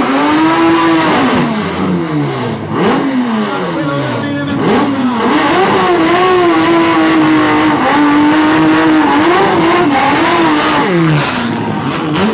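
Drag-racing cars' six- or eight-cylinder engines revving hard at the start line. The revs rise and fall several times, hold steady and high for a few seconds in the middle, then drop near the end.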